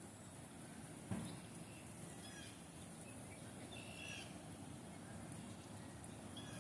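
Faint bird calls: a few short cries about two seconds in and again around four seconds, over a steady background noise. A single dull thump sounds about a second in.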